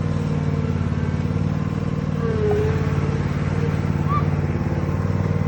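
Engine running steadily at an even speed, from the mower or the machine pulling it out of the mud.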